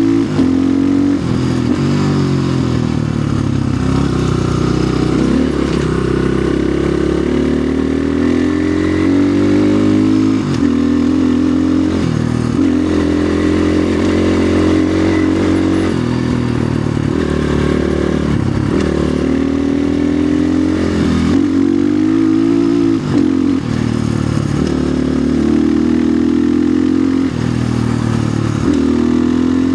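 Orion RXB250XL 250cc dirt bike engine running under load on a trail ride. The revs rise and fall repeatedly with throttle and gear changes, easing off briefly every few seconds.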